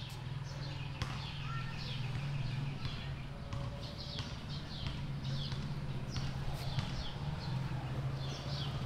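Birds chirping over and over, short high notes that fall in pitch, several a second, over a steady low hum.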